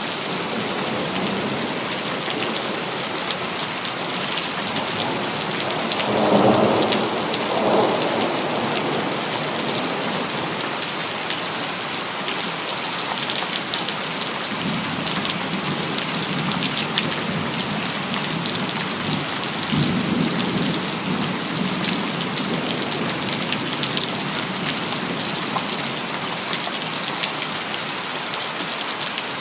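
Steady heavy rain pattering on hard surfaces, with thunder: a louder double clap about six seconds in, then low rolling rumbles later on.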